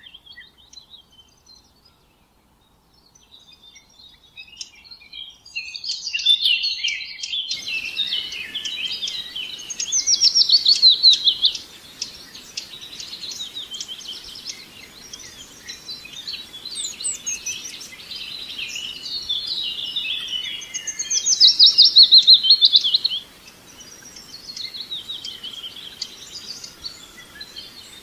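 Songbirds chirping and singing, with two loud rapid trills of quickly repeated descending notes, about ten seconds in and again about twenty-one seconds in. From about seven seconds in a faint steady hiss lies under the birdsong.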